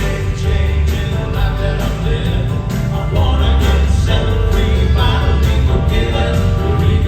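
Live southern gospel song from a male vocal quartet with band backing: voices singing over heavy bass and steady drums.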